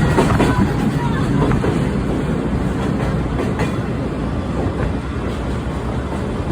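Sightseeing trolley train rolling along the track: a steady rumble with scattered clacks from the wheels on the rails.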